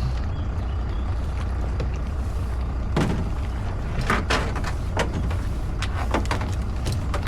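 Small tour boat's engine idling with a steady low hum, with several short knocks and clatters from about three seconds in.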